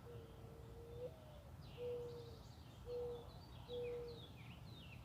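Mourning dove cooing: one long low note stepping up briefly to a higher note, then three shorter low coos. Small birds twitter over it with quick falling chirps from about two seconds in.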